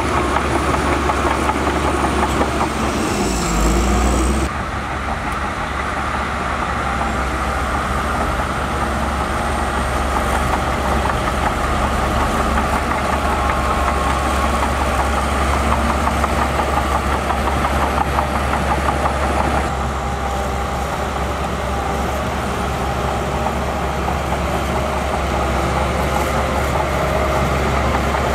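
Heavy diesel engines of construction machinery running steadily, with a brief pitch dip and rise at about three seconds in. The sound changes abruptly twice, a little after four seconds and again near twenty seconds.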